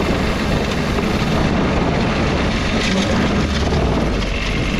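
Small diesel engine of a diesel-swapped Power Wheels ride-on truck running steadily while the truck is driven.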